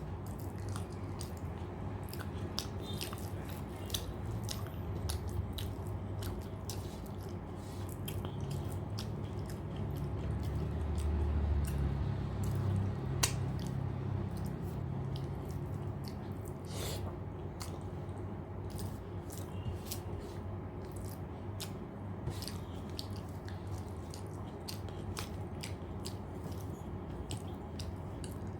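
Close-up chewing and mouth sounds of a person eating rice, dal and fried vegetables, with many small sharp clicks scattered throughout, over a steady low hum.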